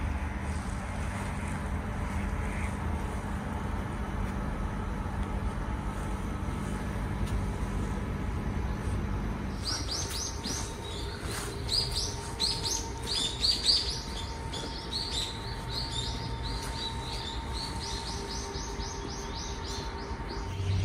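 Small birds chirping in quick repeated bursts, starting about halfway through and carrying on to the end, over a steady low hum.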